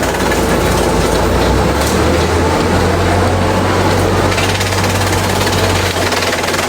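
Industrial bamboo shredder running: a loud, steady low hum under dense noise across the range.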